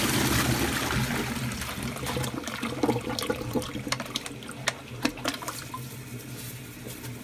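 Toilet flushing: a rush of water that is loudest at the start and slowly fades, breaking up into gurgles and splashes partway through as the bowl drains.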